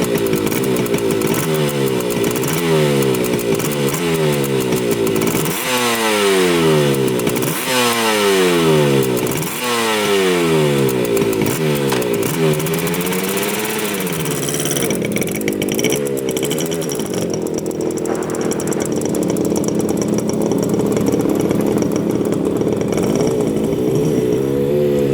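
1975 Yamaha RD200's two-stroke parallel-twin engine being revved in a series of short throttle blips, the revs climbing and falling back each time, then settling to a steady idle about halfway through. It is running on both cylinders after sitting for 20 years.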